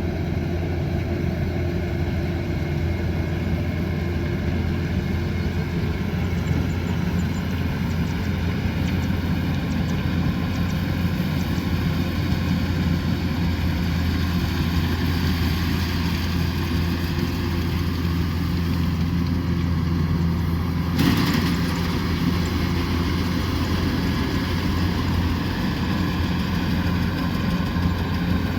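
Kubota combine harvester's diesel engine running steadily with a low, even hum, with one brief sharp knock about three-quarters of the way through.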